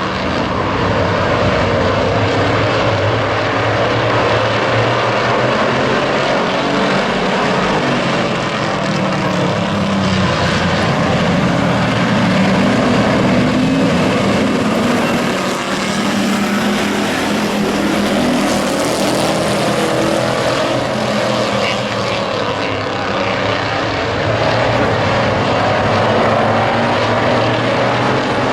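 Race truck engines running at speed in a Hobby Truck feature race on an oval track: a loud, steady engine drone that swells and dips as the trucks come past.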